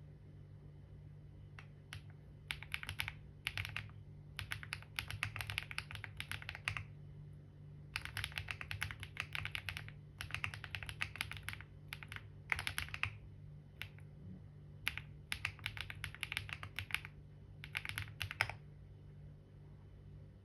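Typing on a computer keyboard: quick runs of key clicks in bursts of a second or two, with short pauses between them, over a steady low hum.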